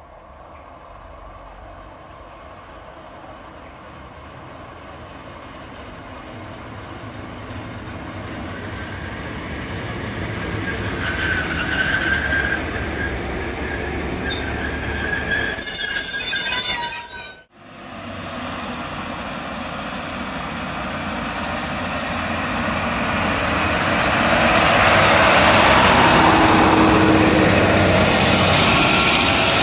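Trains passing on a main railway line. The noise builds to a peak with a high-pitched whine and cuts off suddenly just past halfway. Then another train's noise rises again and stays loud near the end.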